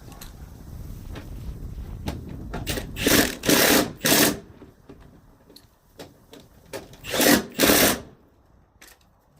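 A power tool run in short bursts: three quick bursts, a pause, then three more, after a low rumble.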